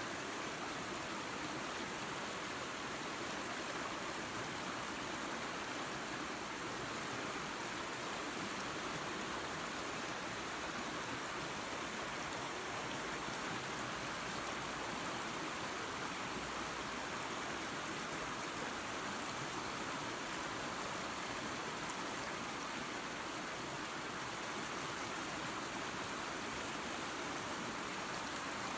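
Waterfall and creek water rushing and splashing in a steady, unchanging hiss.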